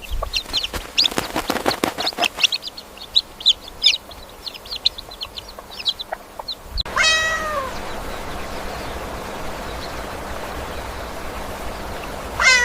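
A flurry of short, high chirps with a few clicks. Then, after an abrupt cut about seven seconds in, a cat meows: one long meow falling in pitch, and another meow at the very end.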